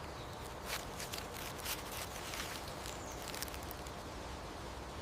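Faint rustling with scattered light clicks over quiet outdoor ambience.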